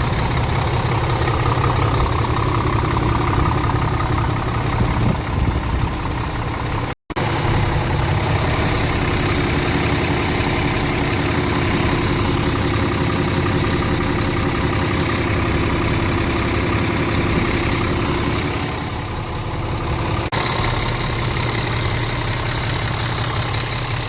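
Scania R tractor unit's engine idling steadily, broken by a brief dropout about seven seconds in.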